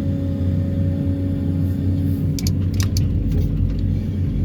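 Excavator with a vibro hammer running steadily with a low, even rumble. A few short clicks come between two and three and a half seconds in.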